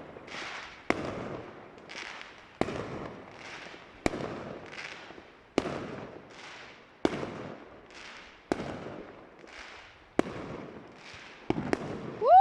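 Fireworks going off in a steady sequence: a sharp bang about every second and a half, each followed by a fading hiss. Right at the end a whistling firework starts up with a rising whistle.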